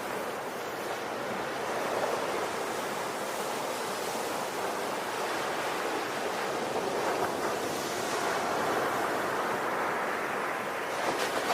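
Ocean waves washing on a shore, a steady rushing surf that swells and eases slowly.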